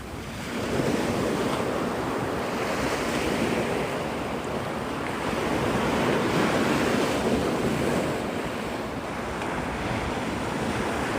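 Gulf surf breaking and washing on the beach, a steady rush that swells and eases every few seconds, with wind buffeting the microphone.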